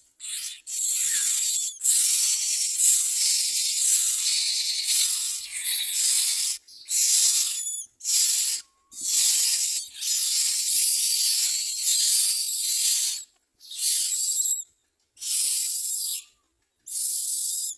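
Myna nestlings giving harsh, hissing begging calls for food in repeated bursts, some several seconds long and others about a second, with short silent gaps between.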